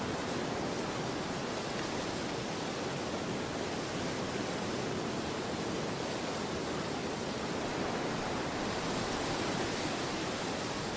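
Storm wind rushing steadily, swelling a little near the end.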